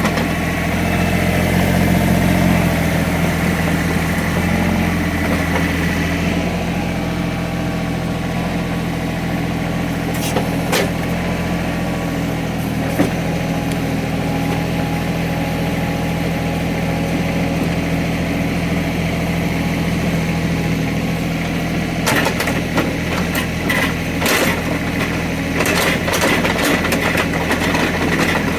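Small Caterpillar excavator's diesel engine running steadily, a little louder for the first few seconds, with scattered clanks and scraping, most of them near the end.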